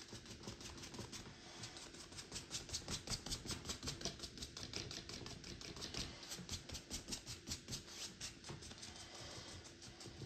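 Paintbrush dabbing and tapping rapidly on a canvas, an even patter of about five strokes a second, over a faint steady hum.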